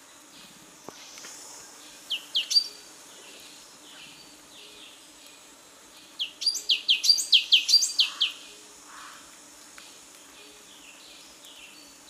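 Songbird singing: a short phrase of three quick rising whistled notes about two seconds in, then a longer run of rapid rising notes, about six a second, from about six to eight seconds in. Faint, regular chirping continues in the background.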